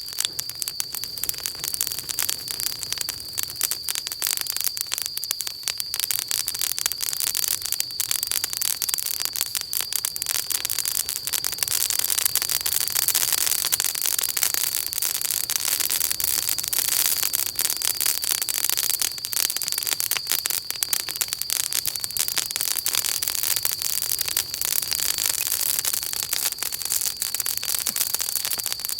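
Wood campfire burning with dense, continuous crackling and popping, a little fuller in the middle, over a steady thin high-pitched tone.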